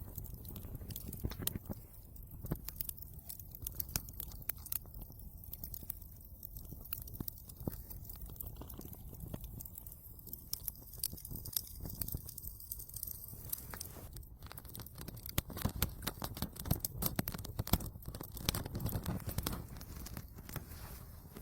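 Wood fire being started in a fireplace: kindling crackling and popping in dense, irregular snaps over a low rumble, with louder pops about two-thirds of the way through.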